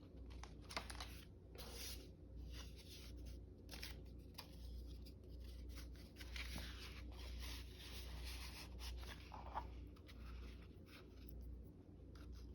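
Sheets of paper being handled and sorted: soft rustles and small taps and scrapes, over a low steady hum.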